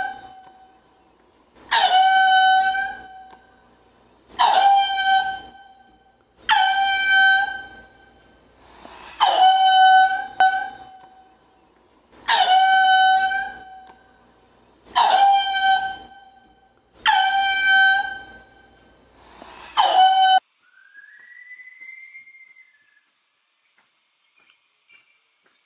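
An animal calling over and over: about eight similar, evenly spaced calls of about a second each, roughly one every two and a half seconds. Near the end this gives way to fast, very high-pitched chirping.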